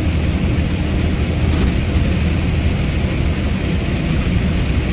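Box truck cab while driving: steady engine and road noise, with tyre hiss from a rain-wet highway.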